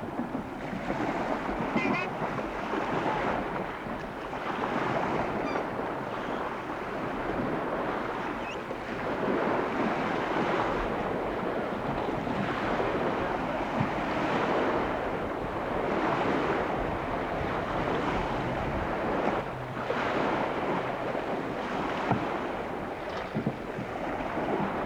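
Wind and water noise, a rushing sound that swells and eases every second or two.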